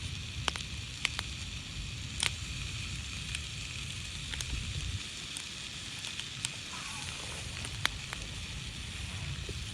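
Wood fire crackling with a steady hiss and scattered sharp pops, over a low rumble.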